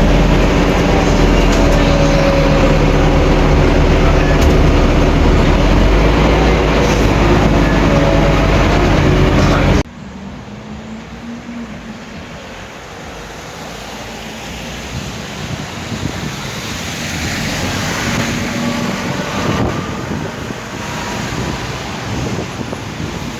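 Scania N270UD double-decker bus running steadily with a deep engine drone for about ten seconds, then the sound cuts off abruptly to quieter vehicle and road noise that slowly builds.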